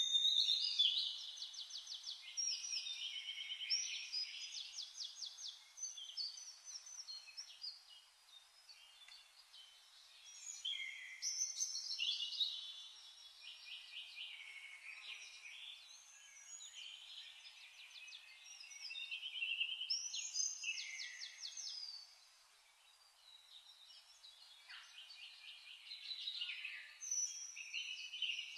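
Songbirds singing: phrases of rapid trills and chirps that come in bursts of a few seconds, with short quieter gaps between them.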